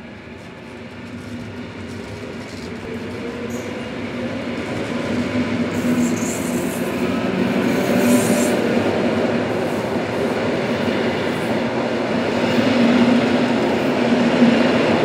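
EN57 electric multiple unit approaching along a station platform and running past close by. Its rail and wheel noise, with a steady low hum, grows steadily louder over the first several seconds and stays loud as the train passes.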